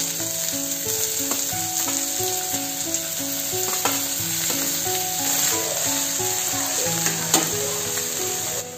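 Chopped spring onion greens frying in hot oil in a stainless steel pan, a steady sizzle, with a few sharp clicks of a spatula against the pan as they are stirred. A plucked background melody plays underneath.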